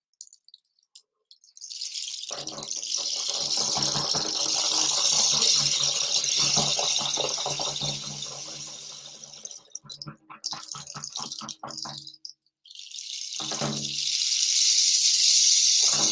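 A pellet-filled rattle instrument is tipped or shaken so the beads pour and hiss inside. It makes a long rush that swells and fades, then a few loose clicks, then a second rush near the end, a rain-like sound.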